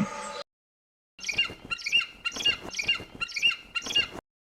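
Bird calling: about six short, high chirps about half a second apart, starting about a second in.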